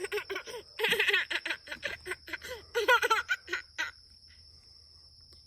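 A young child laughing and giggling in quick bursts, which stop about four seconds in.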